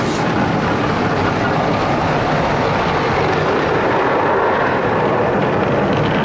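Automatic car wash tunnel working on the vehicle, heard from inside the cabin: a steady rush of water spray and wash equipment against the body.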